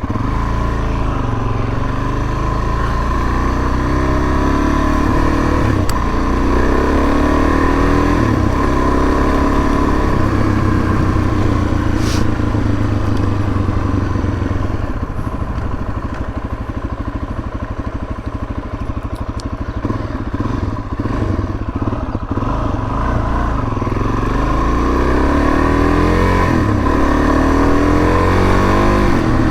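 Suzuki DR-Z400S single-cylinder four-stroke engine running under way, its pitch climbing and dropping several times as the bike speeds up and eases off, with wind noise on the mic.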